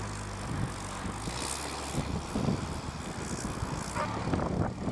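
The small engine of a homemade belt-driven ride vehicle running steadily, with a few brief sharp sounds over it in the middle and near the end.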